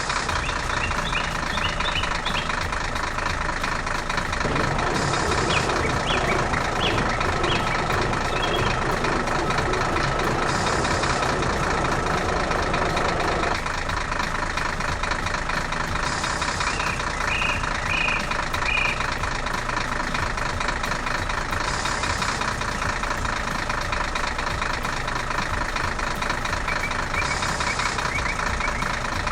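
A heavy vehicle engine running steadily, with short high chirps now and then.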